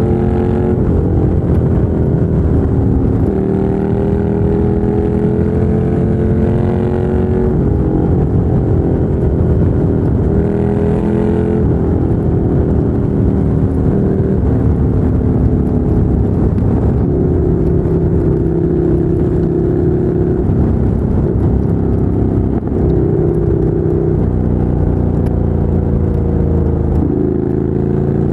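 2017 Ducati Monster 797's air-cooled L-twin through a LeoVince LV-10 exhaust, accelerating through the gears: the engine note climbs and drops back at each upshift several times, then holds steadier at cruising revs before rising again near the end.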